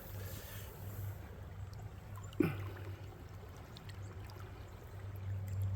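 A low-running creek trickling faintly, with one sharp knock about two and a half seconds in and a few faint ticks.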